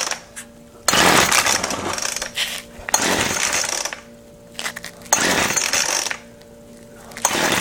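Weed Eater Featherlight FL25 two-stroke trimmer engine being pull-started on full choke. The recoil starter is yanked four times, each pull a loud rasping burst of about a second, about two seconds apart, and the engine does not catch.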